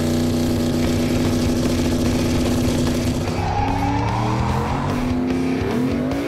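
Drag car's turbocharged LS V8 running at steady revs, then revving up with rising pitch near the end.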